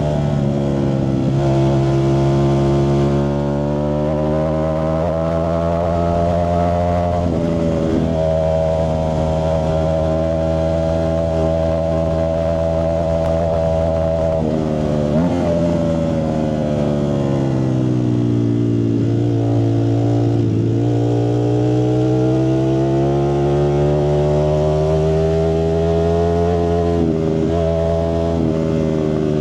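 Ducati Streetfighter V4S's V4 engine running through a Zard exhaust with a steady, loud note. There are brief breaks about 7 and 15 seconds in, then the pitch dips slowly and climbs back in the second half.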